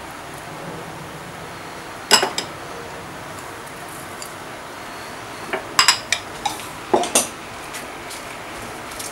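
Kitchen utensils clinking against a stainless steel stockpot while salt is added: one sharp clink about two seconds in, a quick cluster of clinks a little past the middle, and two more soon after, over a steady faint hiss.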